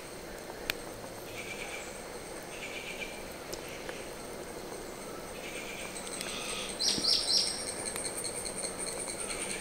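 Birds chirping in the background: short calls repeated every second or so, with a quick pair of higher, louder chirps about seven seconds in. A steady high-pitched trill joins from about six seconds in.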